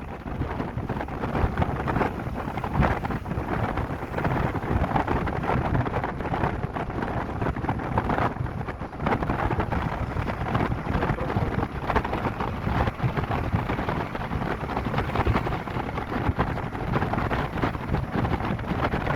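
Wind buffeting the microphone over steady road noise from a moving vehicle.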